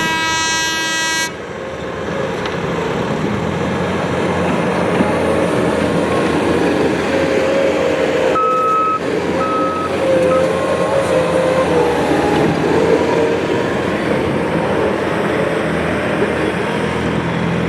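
A horn sounds and cuts off about a second in. Then a tractor's engine runs hard under load pulling the weight sled, its pitch wavering up and down. Two short high beeps sound about halfway through.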